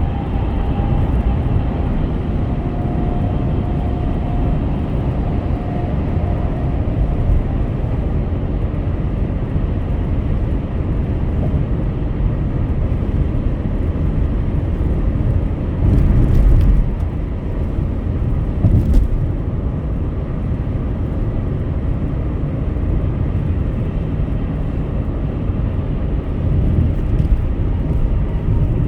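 Steady road noise of a car driving on a highway: a low tyre and engine rumble with a hiss above it. It swells briefly a little past halfway, with a short bump soon after.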